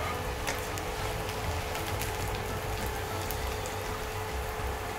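Chicken chilli fry sizzling in hot oil in a wok: a steady crackle with scattered small pops, over a faint steady hum.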